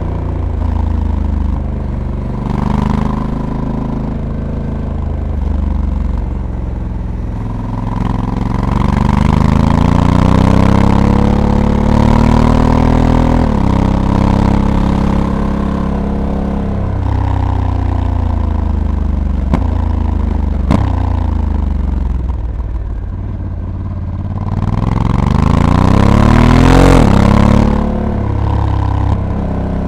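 Honda Africa Twin's 1084 cc parallel-twin engine under way, rising in pitch as it accelerates, then dropping sharply as the dual-clutch gearbox shifts up, twice. Between the climbs the engine winds down as the throttle eases, with a single sharp click about two-thirds of the way through.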